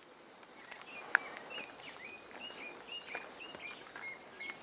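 A bird calling a steady run of short, rising chirps, about three a second, over faint outdoor background noise, with one sharp click about a second in.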